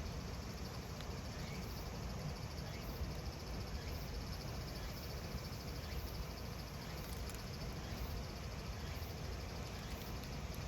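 Cicadas singing in a steady, pulsing drone, with a few faint crackles from a wood fire.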